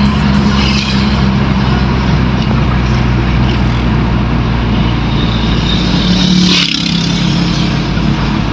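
Car engine and road noise heard while driving, the engine note steady and then rising slightly before dropping abruptly about two-thirds of the way through.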